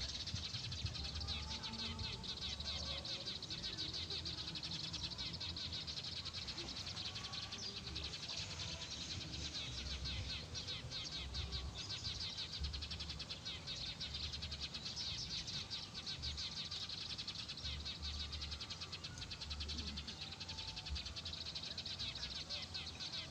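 A steady, dense chorus of high-pitched animal chirping, with intermittent low rumbles underneath.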